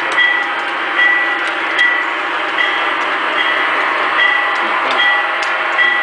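Scale-model freight train running along its track: a steady rolling rattle with a short high chirp and click repeating about every 0.8 seconds, as the wheels pass the rail joints.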